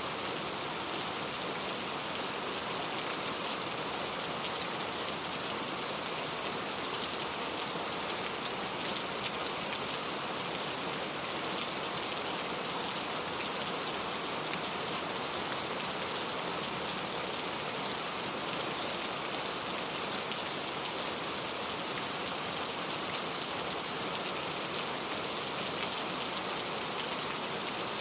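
Steady rain falling, an even hiss of many drops with fine patters of individual drops hitting a surface.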